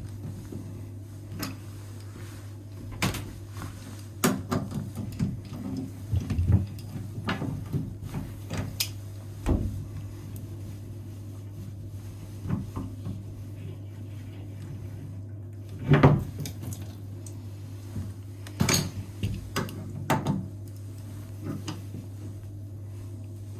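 Scattered knocks, clicks and clatter of a plumber handling tools and parts while replacing a bathroom faucet, with the sharpest knocks about 16 seconds in, over a steady low hum.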